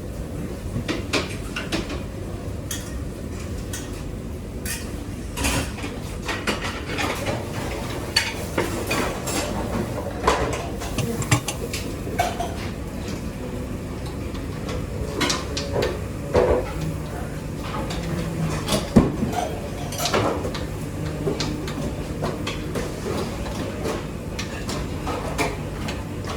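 Pots, plates and metal utensils clattering and clinking at irregular intervals in a working restaurant kitchen, over a steady low hum.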